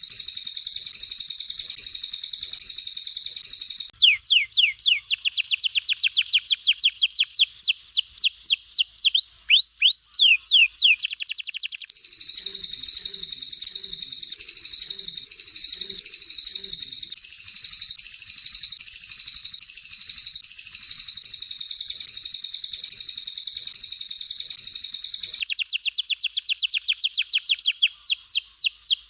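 Recorded songs of a canary and a cililin bird, alternating. A dense, continuous high trill gives way about four seconds in to a fast series of sharp downward-sweeping notes. The trill returns after about eight seconds, and the sweeping notes come back near the end.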